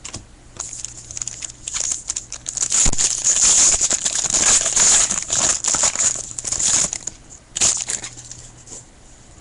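Wrapper of a 2013 Panini Pinnacle baseball card pack being torn open and crinkled by hand, a dense crackling rustle that builds and is at its loudest in the middle, then stops near the end.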